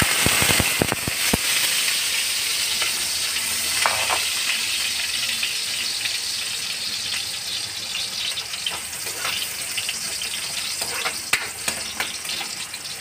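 Diced carrots sizzling in hot cooking oil in a metal wok, a dense hiss that is strongest at first and slowly eases. A few sharp clicks in the first second as the last pieces drop in from the plate, and now and then a light knock against the pan.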